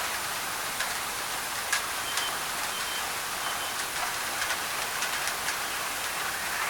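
Steady rain on a thin tin roof, with sharp clicks from individual drops hitting the metal, over an even hiss of added white noise.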